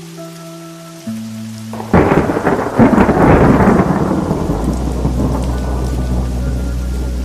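A thunderclap with rain breaking in suddenly about two seconds in, loudest around three seconds, then fading into a low rumble. Held musical notes sound underneath.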